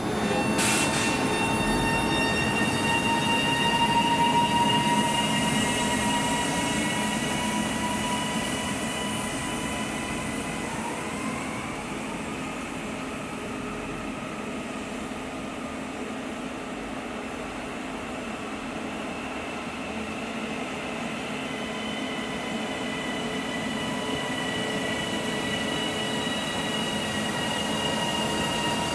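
A passenger train running at a railway station, a steady high whine over rumbling wheels on the rails, with a sharp click just after the start. The whine drifts slowly lower in pitch over the first ten seconds, and the train grows quieter mid-way and louder again towards the end.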